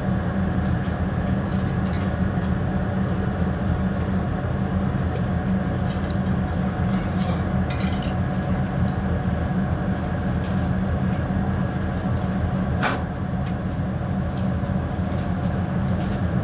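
A train running with a steady low rumble, and a single sharp click or knock about thirteen seconds in.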